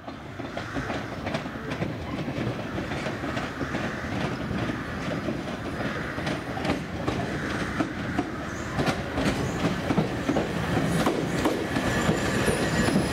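Electric multiple-unit passenger train running on the track, wheels clicking and knocking over the rail joints, growing gradually louder as it comes closer. A thin high tone joins in near the end.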